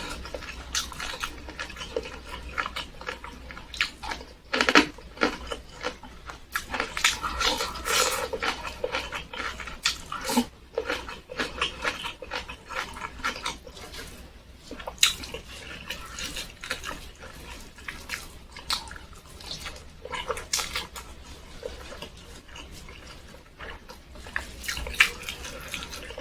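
Close-miked chewing and lip-smacking of a person eating tempe with sambal and rice: an irregular, continuous run of short wet clicks and smacks.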